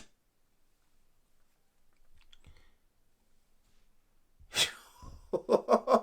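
Near silence, then about four and a half seconds in a man's sharp breathy exhale, followed by a short burst of quick, rapid-fire laughter.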